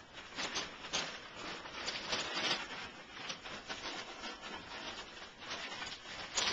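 Irregular rustling and rubbing with scattered light taps and knocks, like puppets and the set being handled and moved about.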